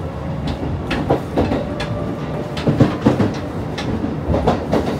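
Shin-Keisei 8800 series electric train running, heard from inside the car: a steady low rumble with irregular sharp clacks through it.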